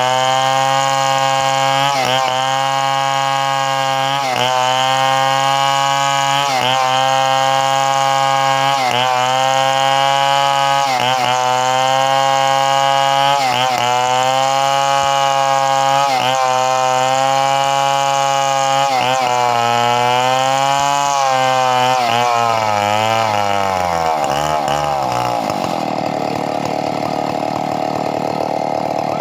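Two-stroke chainsaw running at high revs, its note dipping briefly about every two seconds. About 21 seconds in, the pitch sinks, and by about 25 seconds the steady engine note is gone, leaving a rougher mechanical noise.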